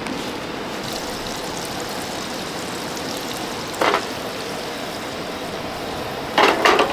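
Butter sizzling steadily in a cooking pot, with a single utensil knock about four seconds in and a quick run of clatters near the end.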